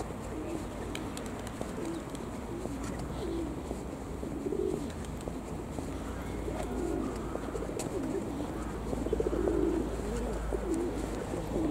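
A series of low cooing bird calls, short and irregularly spaced, over a steady low rumble.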